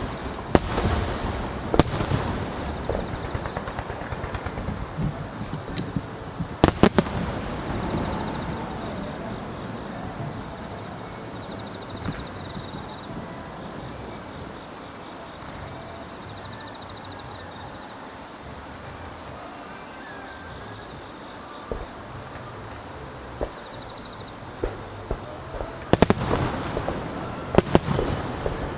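Aerial fireworks bursting: sharp bangs with crackling after them, the loudest about seven seconds in, then a quieter stretch with a few scattered pops before a fresh run of rapid bangs near the end.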